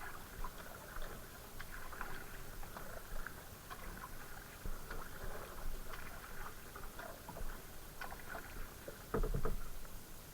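Water splashing and dripping around a kayak paddle, with small irregular knocks and trickles. There is a louder splash or knock about nine seconds in.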